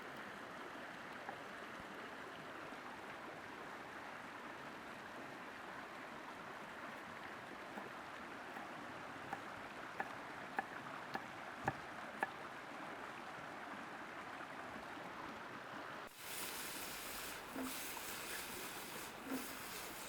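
Food sizzling over a wood fire, a steady hiss with sharp crackling pops from the burning wood. About three-quarters of the way through it switches abruptly to a brighter, harsher hiss.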